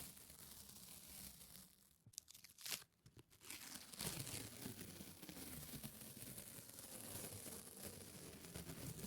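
Close-up ASMR sticky sounds: a tacky surface peeling apart with fine, continuous crackling. About two seconds in it thins to a few sharp clicks, then the crackling resumes.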